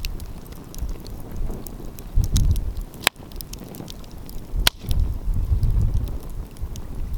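Wood fire crackling with scattered small pops and two louder sharp snaps about three and four and a half seconds in, while gusts of wind rumble on the microphone.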